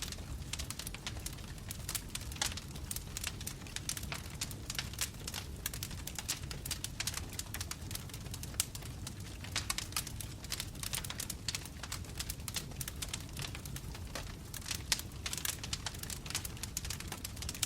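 Wood logs burning in a fireplace: irregular crackles and pops, several a second, over a low steady rumble.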